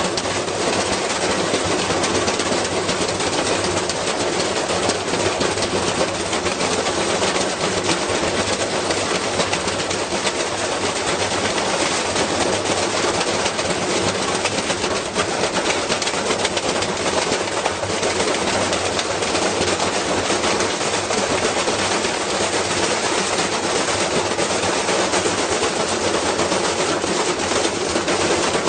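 Whirlpool washing machine spinning with a heavy unbalanced load, shaking and rattling hard with a continuous rapid clatter and knocking as it destroys itself.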